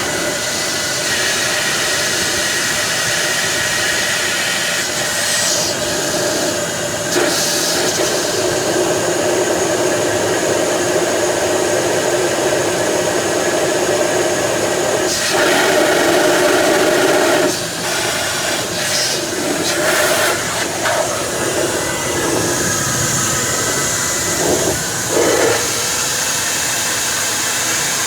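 A steady electric motor with rushing air, running throughout with a few short shifts in level, louder for a couple of seconds about halfway through.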